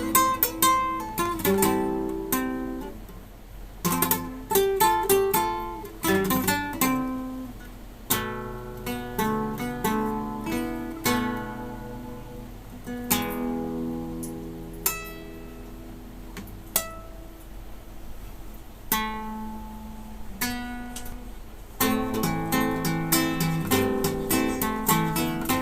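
Solo classical guitar played fingerstyle: plucked chords and arpeggios, each note ringing and fading. The playing thins out and quietens in the middle, then turns busier and louder near the end.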